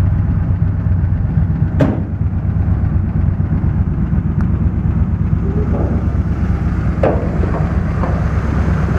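1972 International Scout II's V8 idling steadily, with two sharp clunks about two seconds in and again about seven seconds in.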